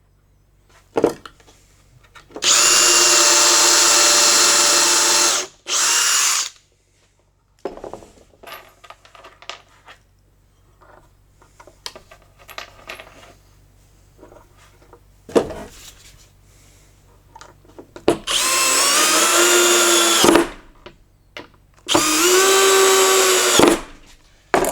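Power drill running in two bursts, about three seconds and then a short one, drilling pilot holes into wood. Later come two runs of about two seconds driving screws, the motor's pitch dropping as each screw tightens. Light clicks and knocks of handling fall between the runs.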